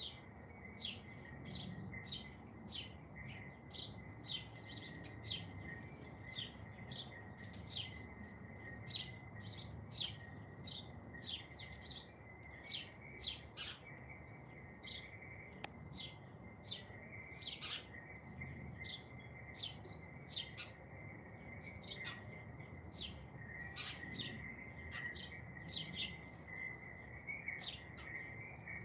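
Small songbirds chirping: quick, short, high chirps, about two a second, over a steady thin high tone and a low background rumble.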